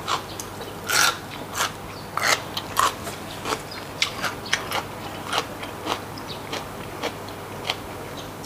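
Close-up chewing of a crunchy raw vegetable: irregular crunches and mouth clicks, about two or three a second.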